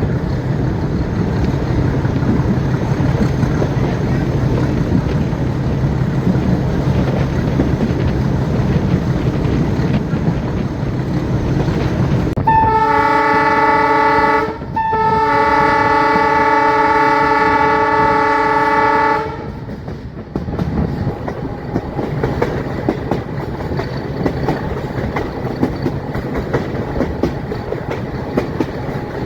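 Metre-gauge train running with the YDM-4 diesel locomotive's engine drone and rail noise. Partway through, the locomotive's horn sounds twice: a short blast, then a longer one of about four seconds. After that, wheels clicking over the rail joints.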